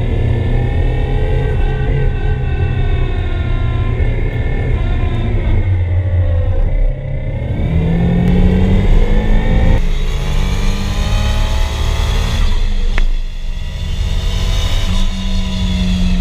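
Turbocharged SR20DET 2.0-litre four-cylinder engine of a Nissan 240SX heard from inside the cabin under hard track driving. The revs fall and climb again, then drop sharply about ten seconds in, as at a gear change, with a short lift and a click a few seconds later.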